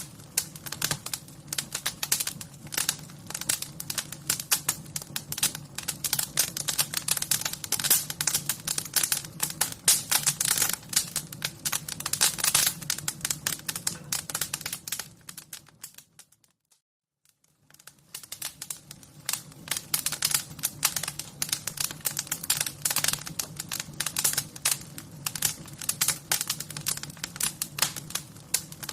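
Wood fire crackling, with dense irregular pops and snaps over a low steady rumble. Just past halfway it fades out to near silence for about a second and then fades back in.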